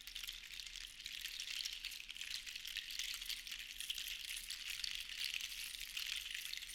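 Sea shells clattering against one another in a steady, dense patter of tiny clicks that slowly swells and eases.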